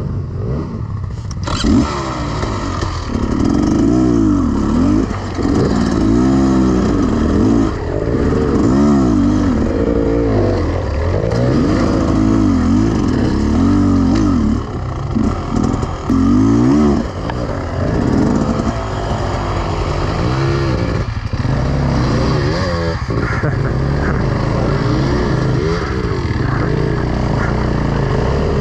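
Beta Xtrainer 300 two-stroke enduro motorcycle engine, revving up and falling back again and again under the throttle, with a few brief dips in level midway.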